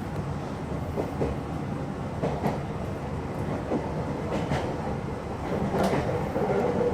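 Meitetsu electric commuter train running along the line, heard from inside: a steady low rumble with wheels clicking over rail joints at irregular intervals. A steady tone comes in near the end.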